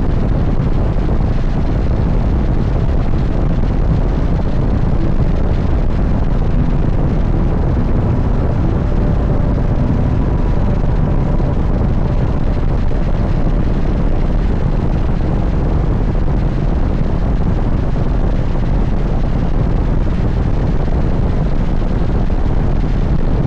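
Steady wind rush on the microphone from an Indian motorcycle in motion, with the motorcycle's engine running beneath it.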